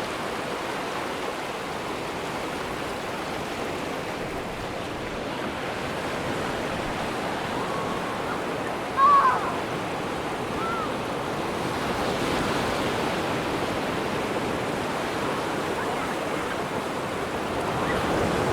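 Atlantic surf washing onto a sandy beach, a steady rushing noise that swells slowly. About halfway through, a brief loud high call cuts in once, followed by a fainter one a second or so later.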